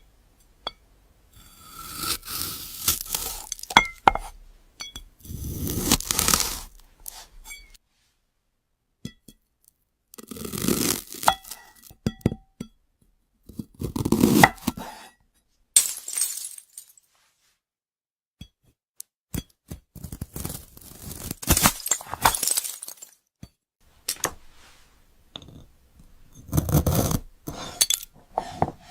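A knife slicing through glassy 'crystal' fruit: a series of crisp crunching, crackling cuts with light glassy clinks, about seven separate bursts each a second or three long, with short silent pauses between.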